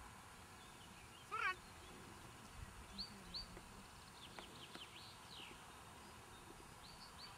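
Faint birdsong over a quiet background: scattered short chirps and whistles, with one louder burst of quick falling notes about a second and a half in.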